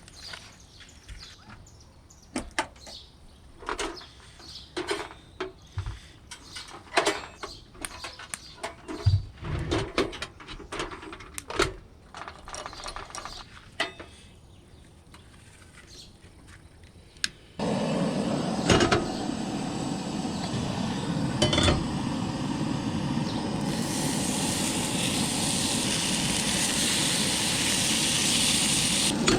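Camp breakfast cooking: pans and utensils clinking and knocking, then more than halfway through bacon starts sizzling in a hot pan, the sizzle growing louder near the end.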